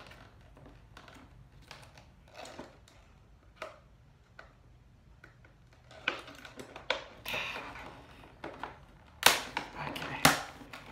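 Hands working at a toy figure's cardboard and plastic packaging: scattered clicks and rustles, growing louder about six seconds in, with two sharp cracks near the end.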